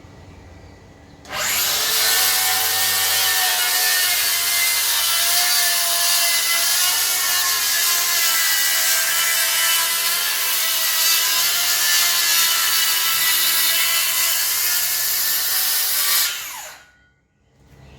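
DeWalt DCS578 60V FlexVolt cordless circular saw starting about a second in and cutting through wood for some fifteen seconds, its pitch wavering under load. Near the end it is released and spins down with a falling whine.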